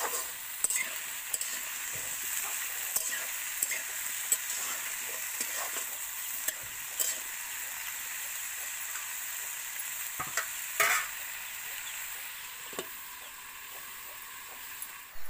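Runner beans and potatoes sizzling in oil in a steel wok over a wood fire, stirred with a spatula that scrapes and taps against the pan. The sizzle grows quieter near the end, once the pan is covered with a lid.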